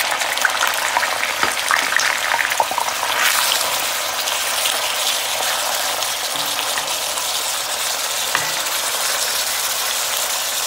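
Shrimp sizzling in hot olive oil in a wok, full of crackling pops for the first few seconds, then settling into a steady hiss.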